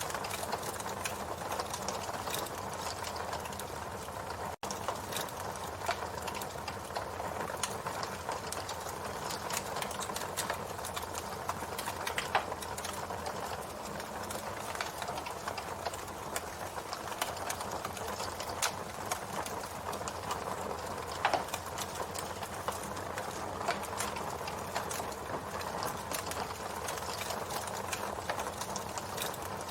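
Campfire burning with steady crackling of burning wood and an occasional louder pop.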